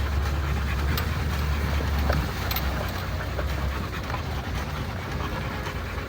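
Motor vehicle engine running with a steady low drone while driving over a rough forest track, with scattered knocks and rattles.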